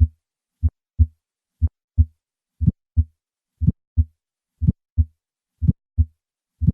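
Recorded heart sounds through a stethoscope: a steady lub-dub rhythm of paired beats, about one cardiac cycle a second, with clear silence between the beats and no murmur filling the gaps.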